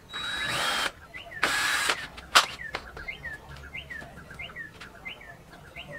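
Two short whirring bursts in the first two seconds, the first with a whine that rises as it starts, then a sharp click. After that a small bird chirps a repeated short call about twice a second.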